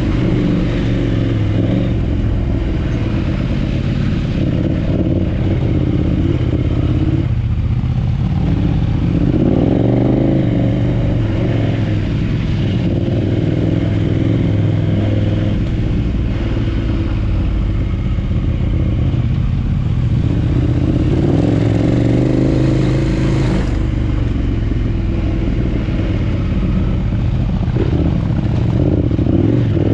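Adventure motorcycle engine running while riding, its pitch rising and falling with the throttle, over steady wind and road noise.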